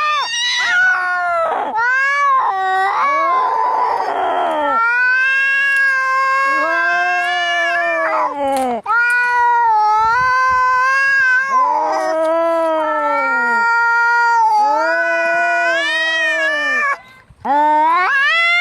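Angry cats caterwauling as in a fight: a string of long, drawn-out yowls that rise and fall in pitch, with a harsher, hissing cry about four seconds in and a short break near the end.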